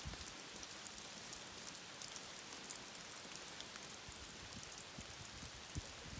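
Rain falling steadily, with many small drop ticks and a few soft low knocks of drops landing.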